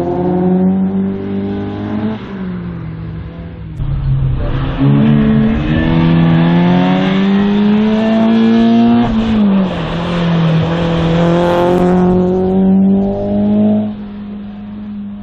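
Race car engine on a slalom run, accelerating hard with climbing pitch, then dropping off sharply about two seconds in and again around nine seconds as the driver lifts or shifts, before climbing again. It gets quieter near the end.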